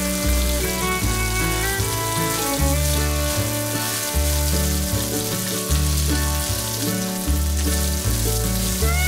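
Bell pepper strips and garlic sizzling in oil in a wok as they are stir-fried. Background music with a slow, steady bass line plays over it.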